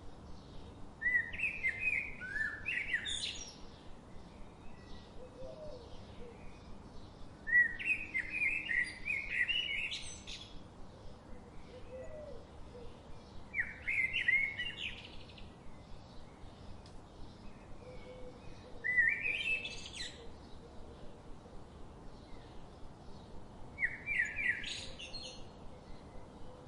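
A songbird singing the same short phrase five times, about every five to six seconds. Each phrase is a quick run of notes that ends in a sharp upward sweep. Behind it runs a faint, steady, rapid chirping.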